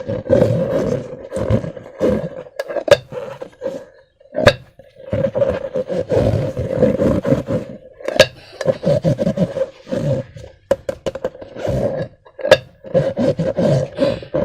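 Slime being squeezed and worked by hand with balloons: irregular squelching and rubbing in bursts, broken by several sharp clicks.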